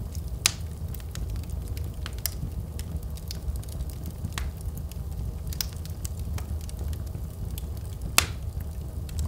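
Wood fire burning in a fireplace: a steady low rumble of flames with scattered sharp crackles and pops, two louder snaps about half a second in and near the end.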